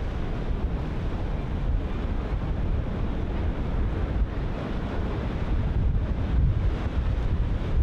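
Ocean surf breaking continuously, with wind buffeting the microphone in a heavy low rumble.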